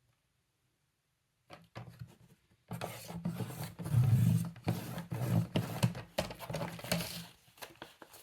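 Paper being worked by hand, its edges roughed up: a dense, irregular scratching and rustling made of many quick strokes, starting a couple of seconds in.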